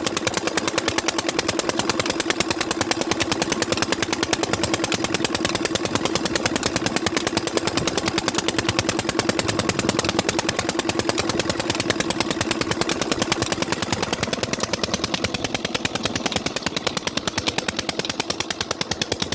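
Old engine running with sharp, rapid, evenly spaced exhaust beats, like a machine gun. A steady hum underneath fades out about three quarters of the way through.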